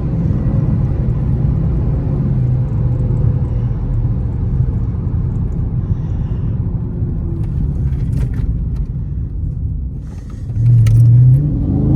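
Dodge Charger Scat Pack's 6.4-litre HEMI V8 running low and steady while driving, with a short, louder burst of throttle about eleven seconds in.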